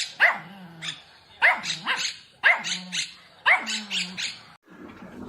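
Dog barking over and over, a bark or two roughly every second, with a short lull near the end.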